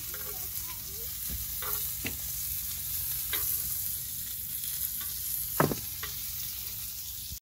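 Hot dogs sizzling on the griddle plate of a portable Coleman camp stove, a steady hiss. A few sharp clicks of tongs against the griddle as the hot dogs are turned, the loudest about five and a half seconds in.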